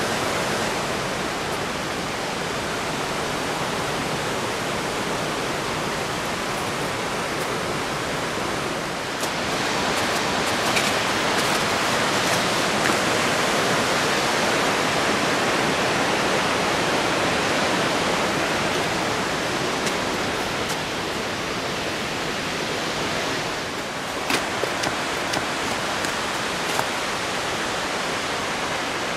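Waterfall rushing steadily, a dense even roar of falling water that swells slightly in the middle, with a few light clicks near the end.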